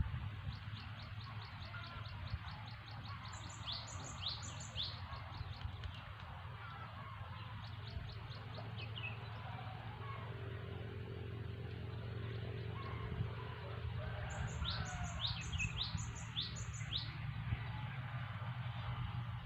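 Birds calling: a fast run of thin ticking notes at first, then two series of sharp, quickly falling whistled notes, three about four seconds in and five near the end. A steady low hum runs underneath.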